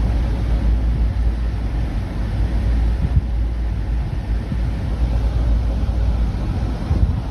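Steady low rumble with an even hiss behind it, from a home video's night-time soundtrack, with no distinct events.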